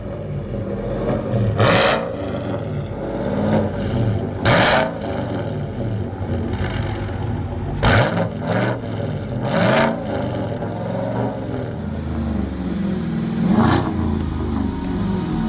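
2018 GMC Sierra's 6.2-litre V8 running through a true dual exhaust with Tunnel Ram mufflers. It is given five short, sharp revs a few seconds apart.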